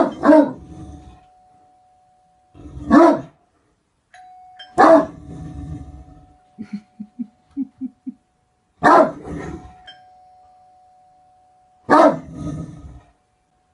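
Great Dane barking: five deep, single barks spaced a few seconds apart, with a run of short low huffs between the third and fourth.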